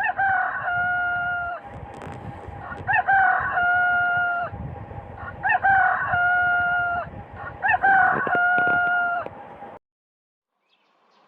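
Rooster crowing four times, each cock-a-doodle-doo about a second and a half long with a long held final note, about every two and a half seconds, over a steady background hum. The sound cuts off abruptly near the end.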